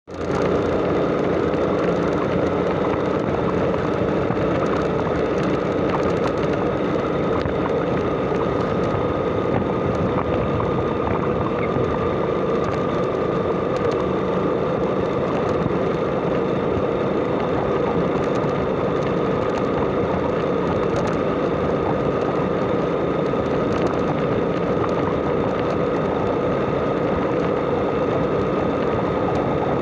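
Motorcycle running at a steady speed, with a constant engine hum that neither rises nor falls over a steady rushing noise.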